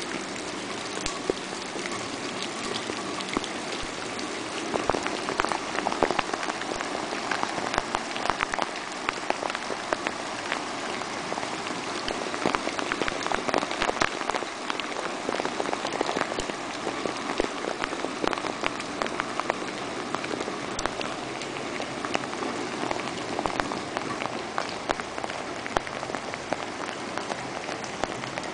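Steady rain falling on hard surfaces, full of many small, sharp drop impacts.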